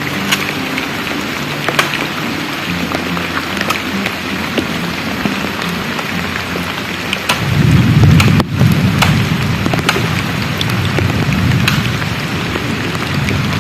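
Heavy rain falling, with close drops striking in sharp ticks. About seven seconds in, a low rumble of thunder swells and stays under the rain.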